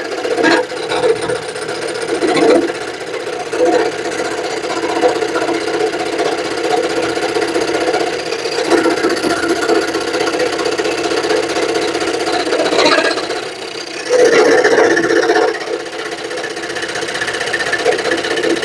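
Scroll saw running and cutting a wooden heart: a steady machine hum from the reciprocating blade that swells and eases as it works through the wood, loudest for a stretch near the end.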